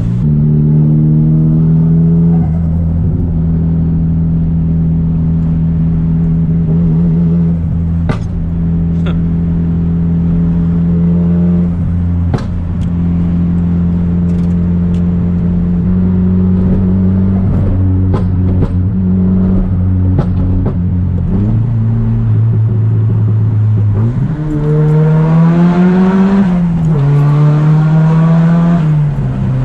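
Straight-piped Nissan Silvia S15's turbocharged SR20DET four-cylinder running at steady cruising revs. About three-quarters of the way through the revs fall, then rise in pitch under acceleration, dip briefly and climb again before dropping near the end. A couple of sharp knocks come early on the drive.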